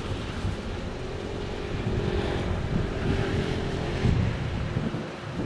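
EF210 electric locomotive approaching with its freight train: a low rumble, with wind buffeting the microphone and a faint steady hum from about one to four seconds in.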